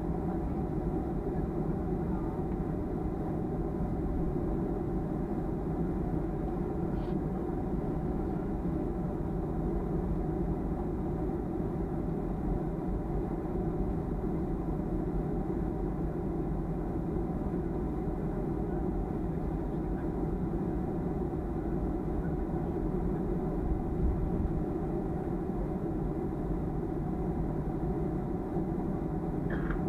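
Steady cabin rumble inside a Boeing 737-300, its CFM56-3 engines running evenly with a few faint steady hums in the mix and no change in power.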